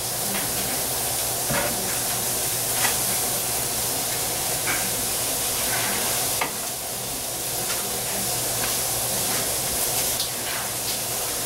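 Chicken pieces frying with a steady sizzle in a hot electric wok, with a few short clicks.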